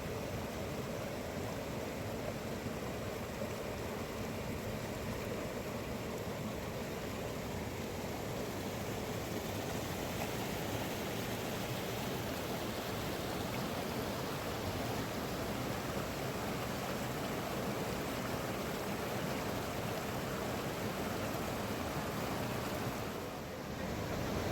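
Steady rush of fast-flowing river water, an even noise that dips briefly near the end.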